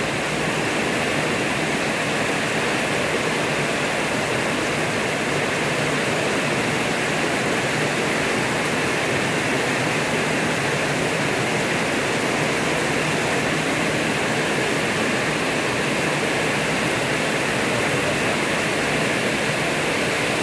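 Heavy rain pouring down in a steady rush, splashing on wet paving.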